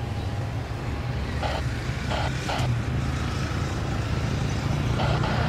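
Distant aircraft engine drone, a steady low rumble that grows slowly louder, with a few short blips about one and a half to two and a half seconds in.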